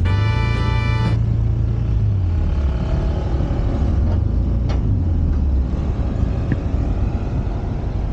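Suzuki Address 125 scooter's single-cylinder engine running at low speed with a heavy low rumble, its pitch rising and falling a little as the throttle changes. The tail of background music ends about a second in.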